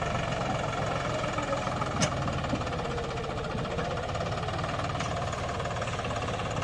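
Deutz-Fahr Agrolux 50 tractor's diesel engine running steadily, with a sharp click about two seconds in.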